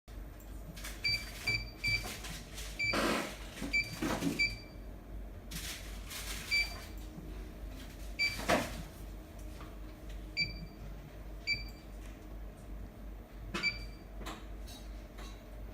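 Short, high electronic beeps, singly and in quick runs of two or three, from the buzzer of a Pro-Face GP577R-TC11 touch-panel display, with rustling and knocking from handling in between.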